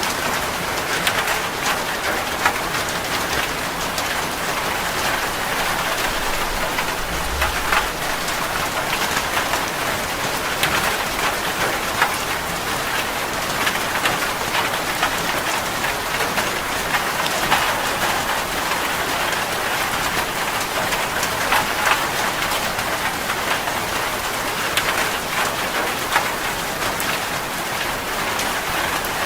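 Heavy rain falling on a metal roof: a steady hiss of rain with many sharp ticks of single drops striking the roof.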